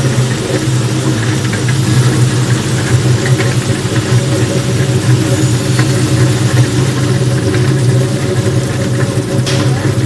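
Potato washer-peeler machine running, a loud steady motor hum with scattered light clicks.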